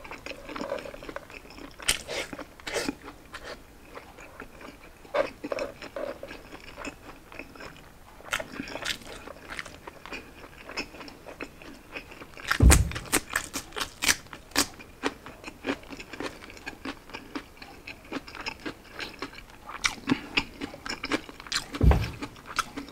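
Close-up chewing and crunching of crispy roast pork belly, with irregular crackly bites and smacking. A little past halfway comes a louder run of crunches, as a cucumber slice is bitten into, and near the end a single deep thump.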